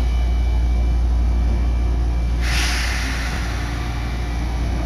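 Cabin of an electric train standing at a station: a steady low hum from the train's equipment. About halfway through comes a sudden, sharp hiss of compressed air from the train's pneumatic system, fading over about a second, as the train gets ready to pull away.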